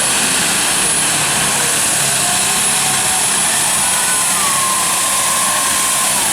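International Harvester pulling tractor's engine running hard during a pull: a loud, dense, unbroken roar with a steady high whine over it.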